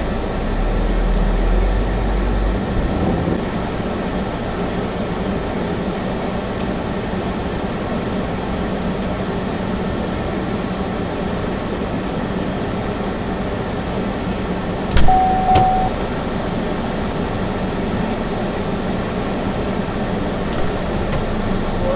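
Steady road and engine noise inside a small car's cabin while driving, with extra low rumble in the first couple of seconds. About fifteen seconds in there is a sharp knock and then a short single beep.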